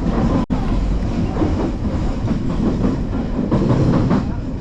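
Odakyu Line electric commuter train running along the track, its wheels rumbling and clattering on the rails. The sound drops out for an instant about half a second in.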